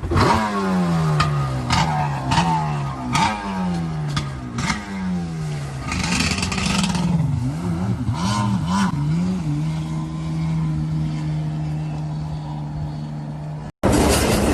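Jet ski engine revving, its pitch sliding down again and again, with knocks and splashes over it. It then wavers up and down a few times and settles into a steady pitch, and cuts off abruptly near the end.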